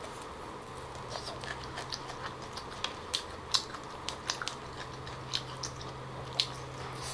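Close-up eating sounds: a person chewing tamarind-roasted lobster, with scattered small wet clicks and smacks, roughly two a second, as fingers pick at the sauced shell. A faint steady low hum sits under it.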